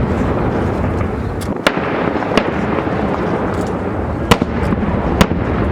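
Aerial fireworks bursting in quick succession: a continuous low rumble of shell bursts, cut by several sharp, loud bangs.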